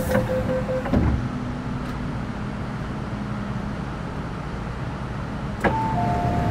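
MTR Metro Cammell M-Train's sliding passenger doors: a pulsing warning beep stops and the doors close with a thud about a second in, over the steady hum of the stationary train. Near the end there is another knock and a two-note chime as the doors reopen.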